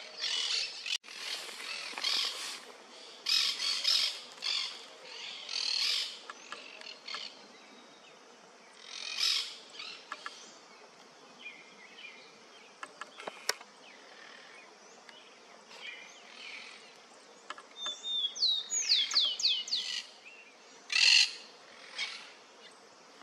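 Yellow-billed cardinals calling: clusters of sharp chirps and quick downward-sweeping whistled notes, busiest in the first few seconds and again from about eighteen to twenty-one seconds in, with quieter gaps between, and a couple of sharp clicks.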